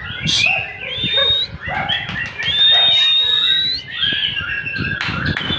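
White-rumped shama (murai batu) in full song: a fast, varied run of whistles and chattering notes, with a long drawn whistle in the middle that rises at its end.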